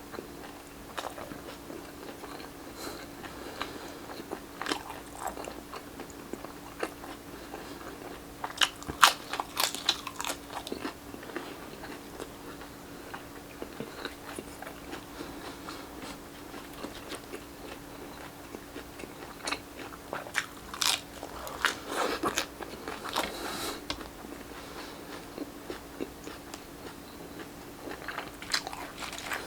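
Close-miked eating of grilled Filipino street-food barbecue: crunchy bites and chewing that come in clusters a few seconds apart, loudest twice in the middle, over a faint steady hum.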